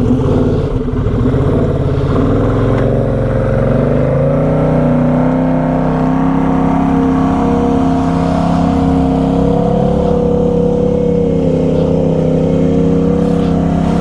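ATV engine running at raised revs: the pitch climbs a couple of seconds in, then holds fairly steady with small wavers. The machine has a wet CVT clutch from water that got into the clutch case, and the revving is likely clearing water out through the exhaust.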